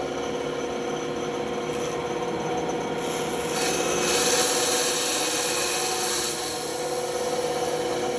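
Band saw running with a steady motor hum, its blade cutting into wood with a louder hiss from about three seconds in until about six seconds in.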